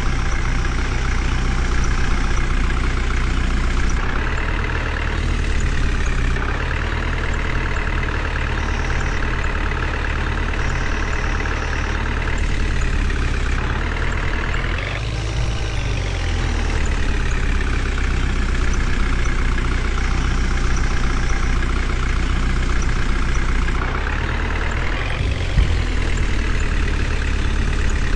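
Heavy diesel engine of a tractor-type vehicle running steadily, its pitch rising three times as it is revved, about 4, 14 and 24 seconds in. One brief thump comes near the end.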